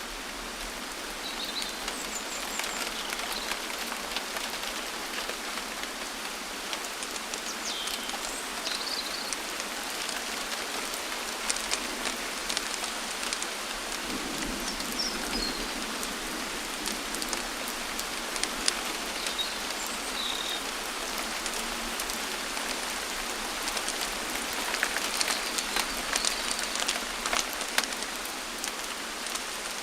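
Steady rain falling, with many separate drops pattering close by. A few brief, high bird chirps are scattered through it.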